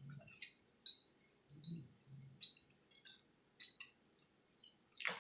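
Faint eating sounds: scattered light clicks and clinks, roughly one every half second to a second, with a slightly louder one near the end.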